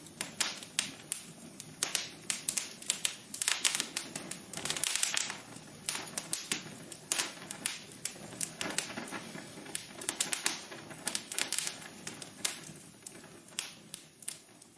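Wood fire crackling, with irregular sharp snaps and pops over a soft steady hiss; it grows quieter near the end.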